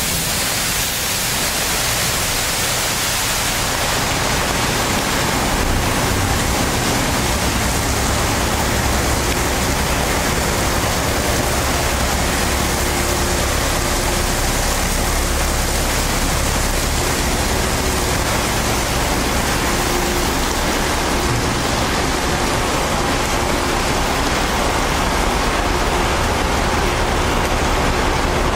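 Steady hiss of water spraying from an automatic truck wash system, with a low machine hum that grows louder about four seconds in.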